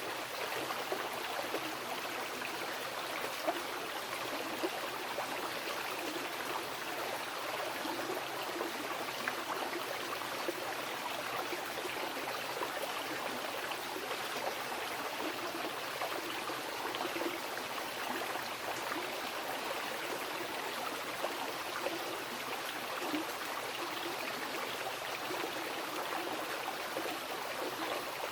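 A mountain river running over rocks: steady rushing and splashing water with small gurgles.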